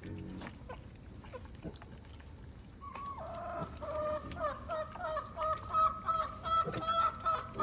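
A chicken clucking: a long run of short, repeated notes, several a second, beginning about three seconds in and growing louder toward the end.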